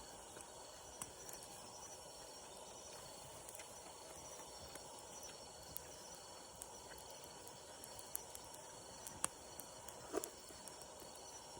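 Faint steady outdoor background of insects, with scattered small crackles from a wood campfire.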